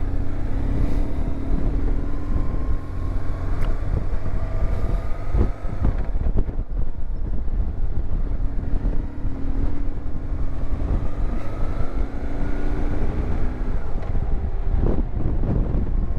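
BMW R1150 GSA's boxer-twin engine running as the motorcycle is ridden, with heavy wind noise on the microphone. The engine note climbs slowly, drops back about six seconds in, climbs again and drops once more near the end.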